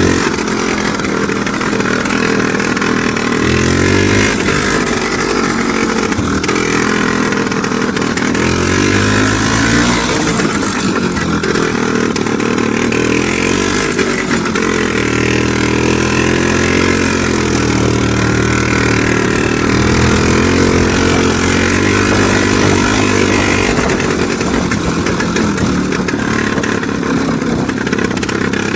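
IZh Planeta 3 motorcycle's single-cylinder two-stroke engine running under way, its revs rising and falling again and again as the throttle is worked.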